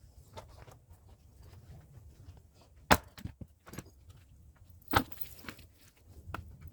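Axe striking firewood rounds, two sharp chopping blows about two seconds apart, with smaller wooden knocks and shuffling between them.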